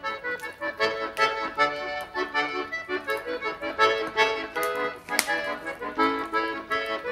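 Background music: an accordion playing a lively melody of short, quickly changing notes.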